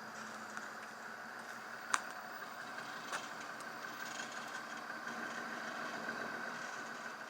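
Dodge pickup truck's diesel engine running steadily, with a sharp click about two seconds in.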